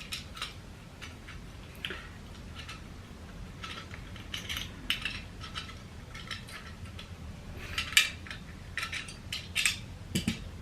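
Irregular small metallic clicks and clinks of a screwdriver, screws and metal parts being handled while a 3D printer's Z-axis part is unscrewed and removed, with a cluster of louder clinks near the end.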